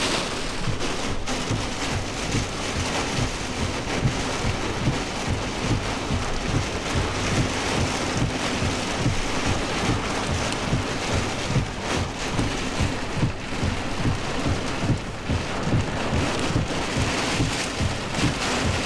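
Heavy wind-driven rain pelting a pickup truck, heard from inside the cab, with constant low buffeting from the straight-line wind gusts.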